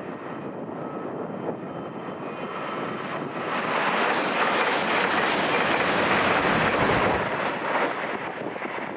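A train passing along the line: its rushing wheel-and-rail noise swells from about three seconds in, is loudest for about four seconds with a deep rumble at the end of the pass, then fades.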